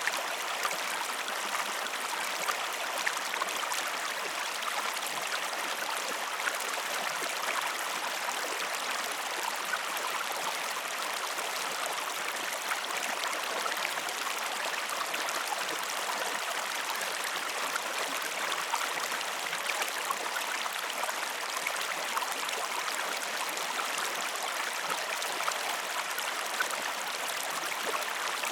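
A flowing stream: a steady, even rush of water with many small splashing ticks in it.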